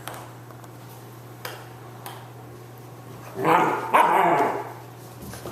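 Shiloh Shepherd puppy barking twice in quick succession about three and a half seconds in, after a few faint taps.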